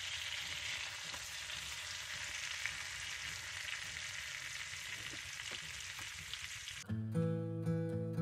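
Flour-dredged chicken breasts frying in oil and butter in a cast-iron skillet, a steady sizzle. About seven seconds in it cuts off abruptly and strummed acoustic guitar music begins.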